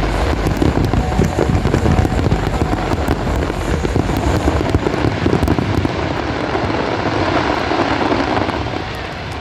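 Fireworks display going off in a dense barrage: rapid overlapping bangs and crackles over a continuous deep rumble. The bursts thin out in the last few seconds and the level drops near the end, as the show comes to its close.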